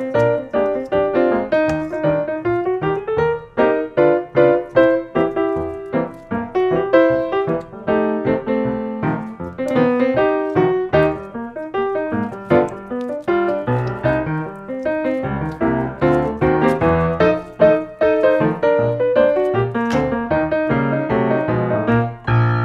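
Background music: a solo piano playing a quick ragtime tune.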